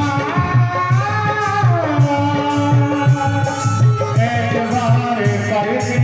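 Live bhajan music: a sung devotional melody over a steady hand-drum beat, with a shaker-like rattle in the rhythm.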